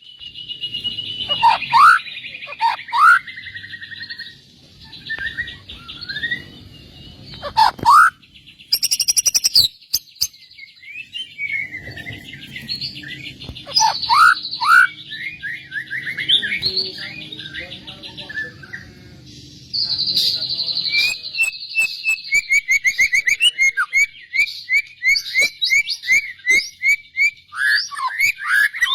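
Songbird singing a long, varied masteran (song-tutoring) song of clear whistles, falling sweeps and fast repeated trill notes. A low steady rumble sits beneath it for roughly the first twenty seconds.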